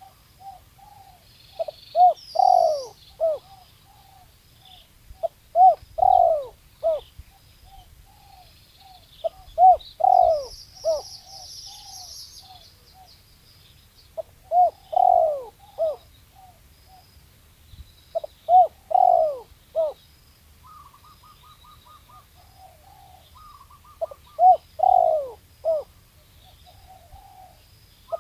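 Spotted dove cooing its rhythmic territorial call: a few short notes and a longer falling coo, repeated about every four seconds. Small birds chirp faintly in the background, with a brief rapid trill in the second half.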